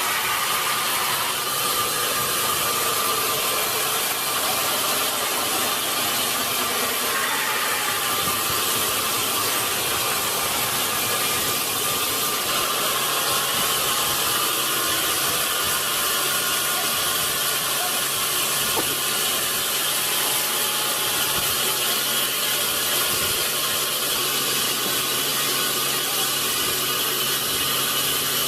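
Sawmill saw running steadily as it cuts through a large log, a continuous even machine noise with faint steady tones.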